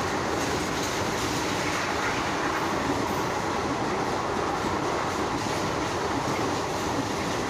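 Passenger train running past at speed: a steady, unbroken rumble of the coaches and wheels on the track.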